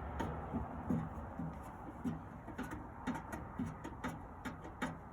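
Screws being turned by hand into the sheet-metal body of a Camp Chef SG pellet smoker: a run of short creaking clicks, about two a second, over a low steady hum.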